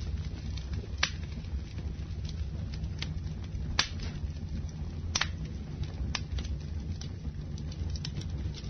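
Campfire burning: a steady low rumble of flames with irregular sharp crackles and pops of burning wood, the loudest about a second in and near four seconds.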